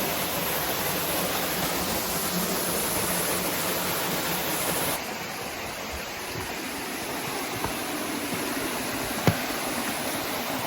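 Creek water rushing steadily over rocks at a small cascade. The rush drops a little about halfway through, and there is a single sharp knock near the end.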